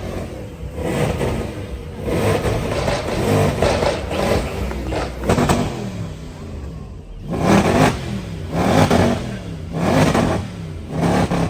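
Car engines running and being revved. In the second half, four revs come about a second apart, each rising and falling in pitch.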